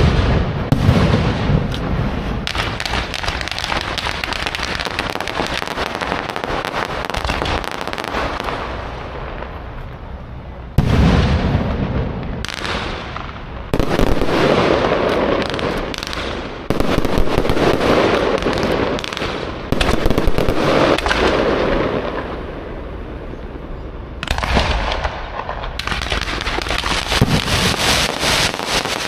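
Aerial fireworks, electronically fired, bursting overhead in a dense, continuous run of crackles and bangs. Fresh volleys start abruptly several times, about every three seconds through the middle stretch.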